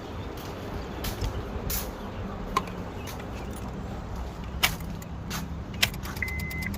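Scattered single clicks from the OBD connector being handled under the dashboard. Near the end a fast even ticking starts, with a high electronic beep about once a second.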